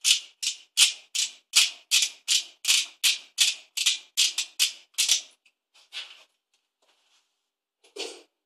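Quick, even rasping strokes on a metal workpiece, about three a second for some five seconds, then a few scattered strokes, the last near the end. It sounds like hand-working the bushing with an abrasive tool.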